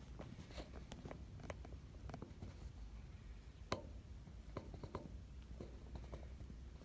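Small wild birds pecking at scattered rice grains: faint, irregular little ticks and taps, with one sharper tap in the middle.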